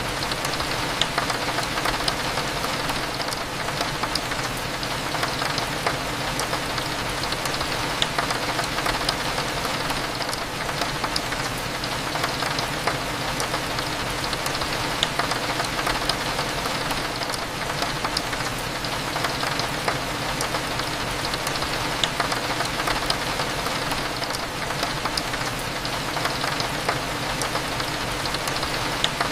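Steady rain hitting a window, with many small drop ticks scattered through it, over a low steady hum.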